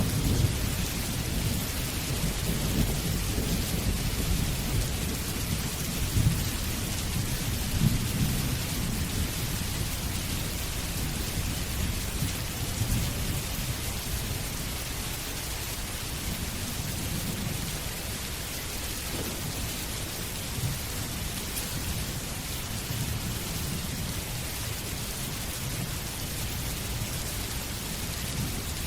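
Steady rain with a low rolling rumble of thunder, heaviest in the first few seconds and easing off after.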